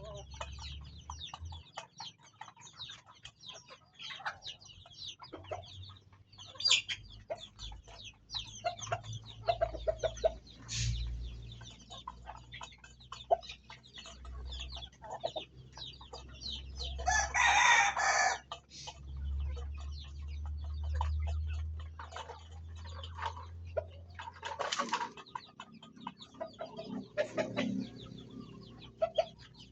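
Farm chickens clucking, with many short, high calls. A louder call lasting over a second comes about halfway through, and a shorter one comes near the end.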